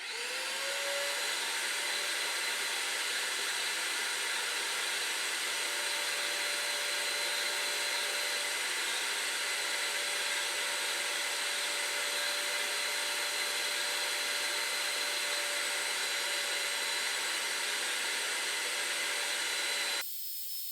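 Vacuum cleaner switched on, its motor whine rising as it spins up and then running steadily. Near the end the sound drops suddenly to a quieter hiss.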